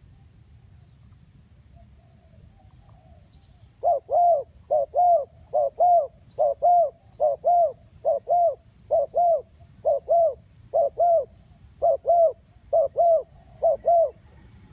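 Spotted dove calling: a run of about ten quick paired coos, starting about four seconds in and going on evenly until near the end, with faint cooing before it.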